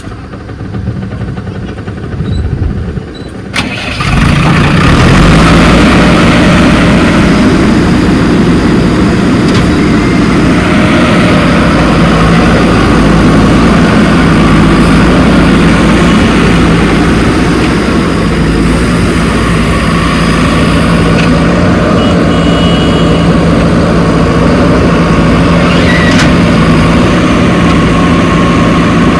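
Diesel engine of a JCB 3DX backhoe loader running steadily with a constant low hum. It comes in suddenly and much louder about four seconds in, after a quieter start.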